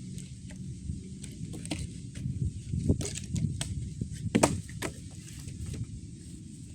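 Wood campfire crackling, with irregular sharp pops that come thickest in the middle, over a steady low rumble.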